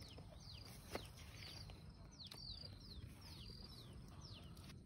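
Faint bird calls: short, high falling chirps repeated several times a second, with a single click about a second in.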